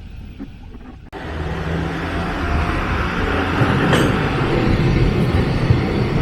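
Nagasaki Electric Tramway streetcar running along street track, its motor hum and wheel noise growing louder as it comes close, with a sharp click about four seconds in. A quieter first second breaks off suddenly into the tram noise.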